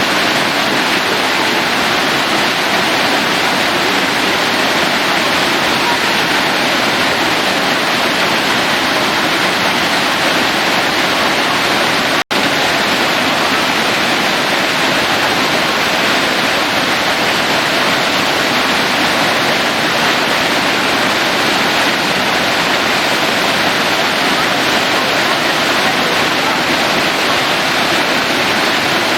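Waterfall: a steady rush of falling water, broken by a momentary dropout about twelve seconds in.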